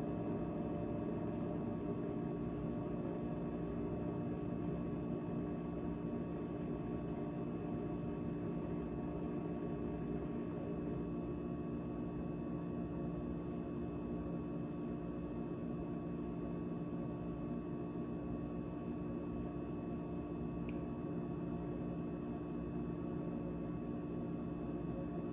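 GE GTH18XCTZRBB refrigerator running after its heat (defrost) cycle, a steady hum of several tones that holds level throughout. A single faint tick comes about twenty seconds in.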